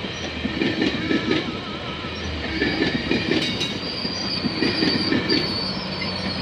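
GO Transit commuter train passing close by, its wheels knocking over the rail joints in a repeating rhythm over a steady rumble. A thin high wheel squeal comes in about four seconds in.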